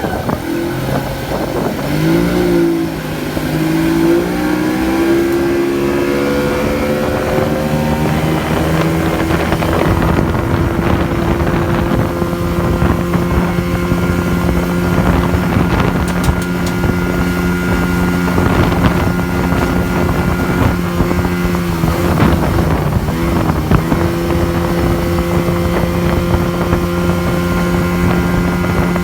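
Motorboat engine towing a banana boat. It speeds up over the first few seconds, then runs steadily at speed, eases off briefly about two-thirds of the way through and picks up again. Wind and water rush over the microphone throughout.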